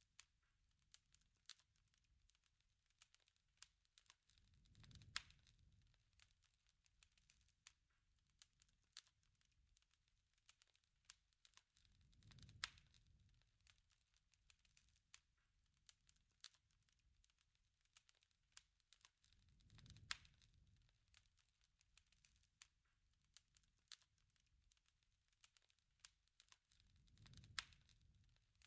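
Faint crackling campfire: scattered pops and snaps, with a low rush of flame swelling and fading about every seven seconds.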